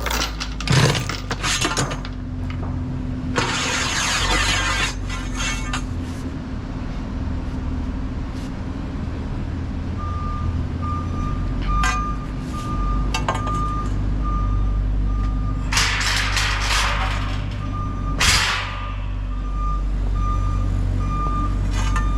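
A heavy diesel vehicle's engine running steadily, with a reversing alarm beeping at one pitch from about halfway through. A few short bursts of hissing noise come in between.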